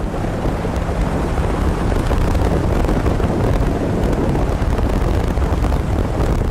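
Jet boat running fast on a river: a steady engine drone under a loud rush of wind across the microphone.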